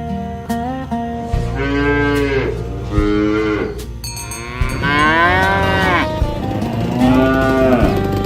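Cows mooing: four long, bending calls, the third the longest and loudest, over soft background guitar music.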